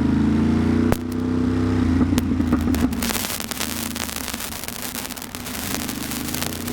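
Ducati Monster's V-twin engine running at low speed, its note rising and falling slightly, with a sharp click about a second in. From about three seconds in, crackling wind and rain noise on the microphone grows over it.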